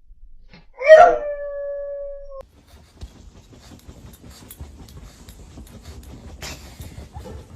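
A dog howls once, starting with a loud yelp-like onset and then holding one steady note for about a second and a half before it cuts off abruptly. Faint rustling and small clicks follow.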